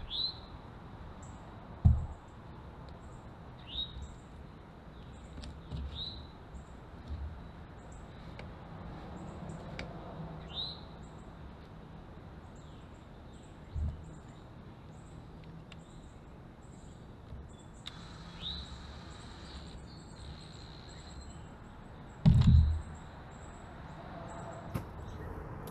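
Birds chirping outdoors: short rising calls every few seconds over a faint, quick, high peeping. A few dull thumps from work in the trench, the loudest near the end.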